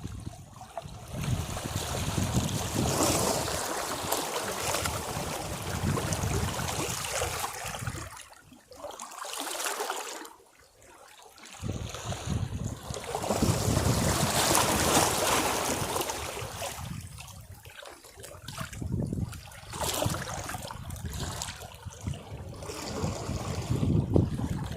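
Sea waves breaking against rocks and washing back, in slow surges with a near-quiet lull of a few seconds between the two biggest swells.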